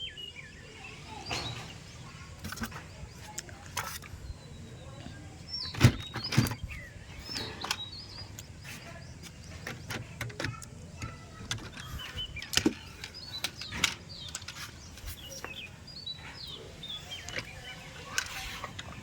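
Small birds chirping in short, falling calls again and again, with scattered sharp clicks and knocks; the loudest knocks come about six seconds in and around twelve seconds in.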